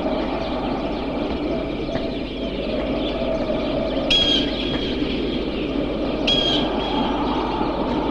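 Two short, loud bird calls about two seconds apart, over a steady noisy background.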